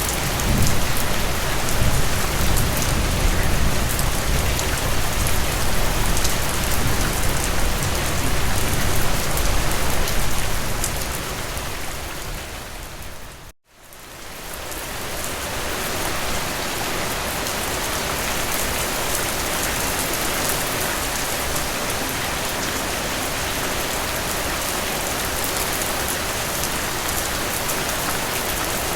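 Steady rain falling, a dense even hiss of drops, with a low rumble under it for the first ten seconds or so. About halfway through it fades out to a moment of silence and fades back in.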